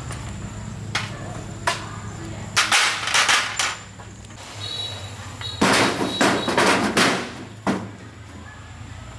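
Two clusters of sharp knocks, four or five strikes each, a few seconds apart, over a steady low hum.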